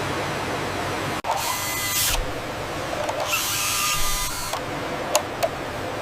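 Factory machinery noise: a steady hiss with two bursts of power-tool sound in the middle and two sharp clicks near the end.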